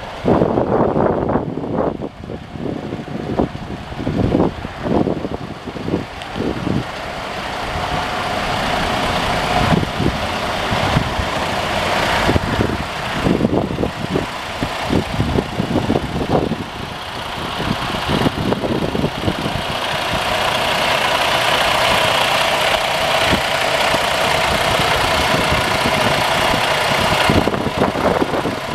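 Diesel engine of a Freightliner Cascadia semi truck running, with irregular thumps in the first several seconds, then a steady run whose hum slowly grows louder and then levels off.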